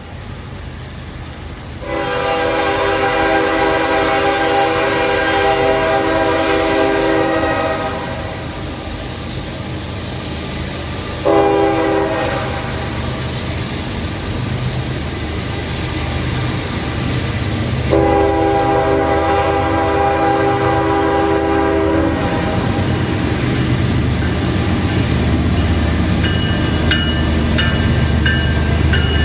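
Diesel locomotive's multi-chime air horn blowing three blasts, long, short and long, over the rumble of an approaching train. The rumble of the train and its wheels on the rails grows louder after the last blast.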